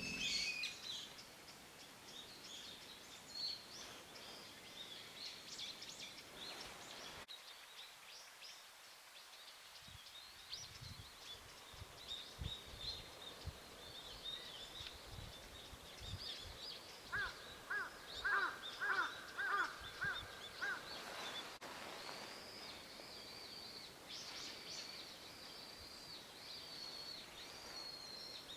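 Wild birds chirping and calling, with a run of about eight loud, evenly spaced calls a little past the middle.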